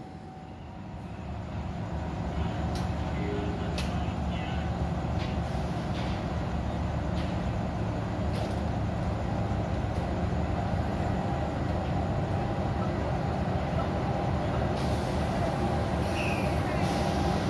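A diesel locomotive hauling a passenger train pulls into the station. Its steady engine rumble grows over the first few seconds and then holds, with scattered sharp clicks from the wheels and a short hiss near the end.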